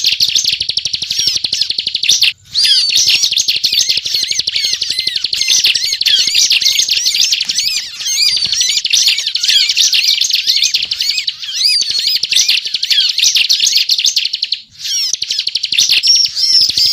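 A ciblek (bar-winged prinia) in full, non-stop song, a loud, rapid, rattling run of high chirping notes. It breaks off briefly twice, at about two seconds in and near fifteen seconds in.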